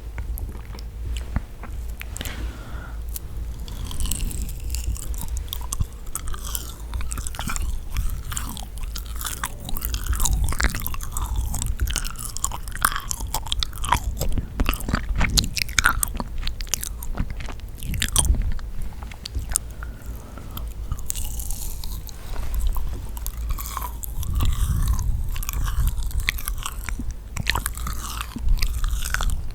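Close-miked chewing and biting of yakgwa, a sticky honey-soaked Korean fried cookie, with many irregular wet, sticky mouth clicks and smacks.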